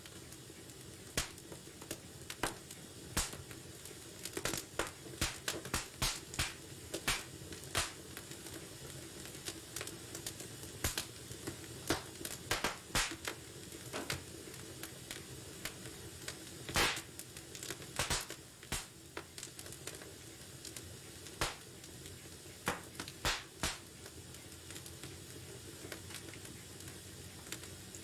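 Wood fire in a fireplace crackling: irregular sharp pops and snaps, clustered at times, over a low steady hiss of burning.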